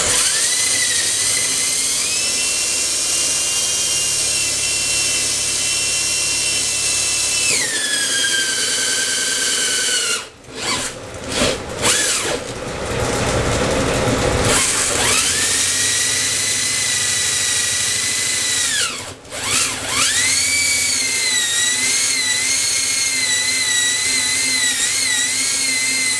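A handheld electric drill whines as it bores out the hollow of a small bowl in a clamped block of 2x4 pine. It winds down and stops partway through, gives a few short trigger spurts, then runs again with a brief stop. In the last stretch the pitch wavers as the bit grabs in the wood and jerks the block in the clamp.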